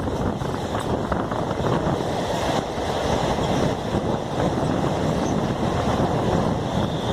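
Passenger train running at speed, heard from on board: a steady rumble of wheels on the track, with wind buffeting the microphone.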